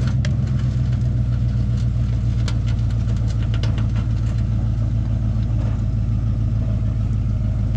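Engine idling steadily, with a few light clicks and knocks over it.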